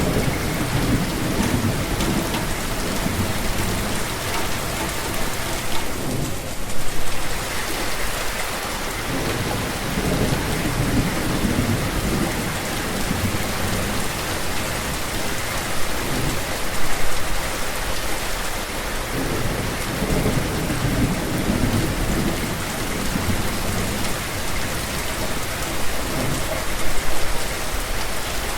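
Steady rain falling, with low rumbles of thunder swelling and fading again and again.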